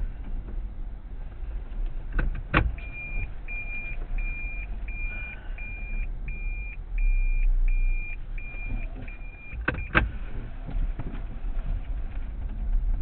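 A car's warning chime beeps steadily, nearly twice a second, for about seven seconds between two sharp clunks, over a low idling rumble from the car.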